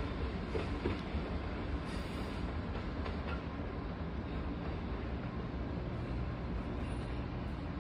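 A train running on the rails at a distance, a steady rumble with a few faint wheel clicks in the first few seconds.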